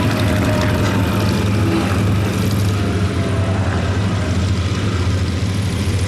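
Steady low drone of the de Havilland DH.88 Comet's twin Gipsy Six piston engines, with a faint engine tone that fades out during the first half.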